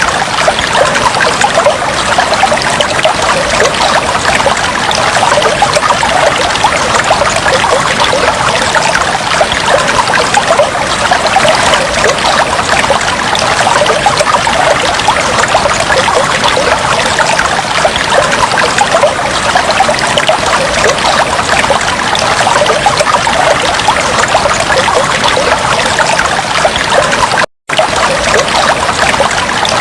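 Aquarium water trickling steadily. It cuts out for a split second near the end.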